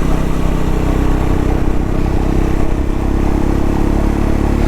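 Single-cylinder engine of a Triumph Scrambler 400X motorcycle running at a steady pace while being ridden.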